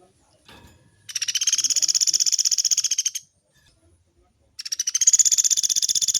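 Pelatuk beras woodpecker giving long, fast rattling calls: two rattles of about a dozen sharp, high notes a second, each about two seconds long, the second starting about four and a half seconds in.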